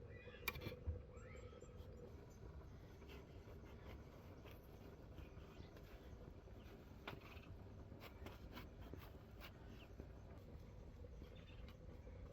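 Near silence: faint background hum with a few scattered soft clicks and knocks.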